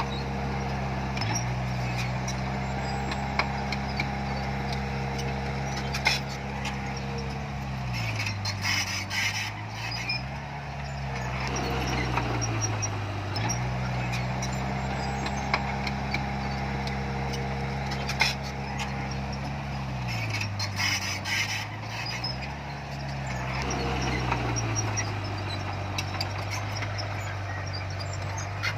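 Bulldozer's diesel engine running steadily, its pitch sagging twice as it lugs under load and then picking back up. Sharp metallic clanks and rattles cluster around each sag.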